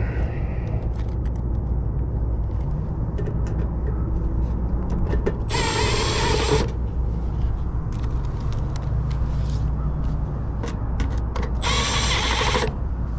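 Cordless screwdriver running twice, about a second each time and six seconds apart, driving sheet-metal screws into a rooftop unit's panel. A steady low hum and small clicks of handling sit underneath.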